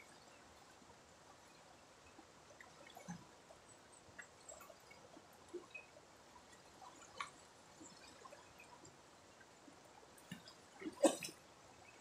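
Faint river water dripping and trickling, with small scattered plops, and one louder sudden sound near the end.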